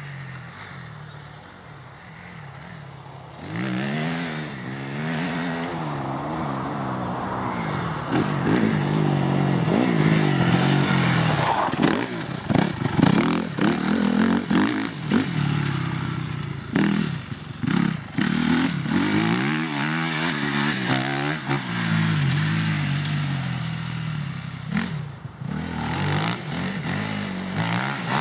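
Motocross bike engine being ridden hard, its pitch rising and falling with repeated revving through the gears. It is lower for the first few seconds and picks up about three and a half seconds in. Clattering knocks come through now and then, mostly in the middle.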